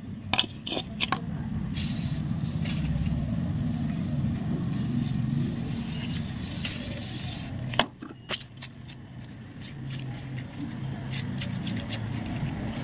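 Steady low rumble of a motor vehicle running nearby, with a few light metallic clicks and clinks near the start and again about eight seconds in.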